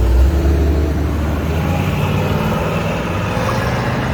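Car engine and exhaust running loudly with a deep, low rumble, fairly steady.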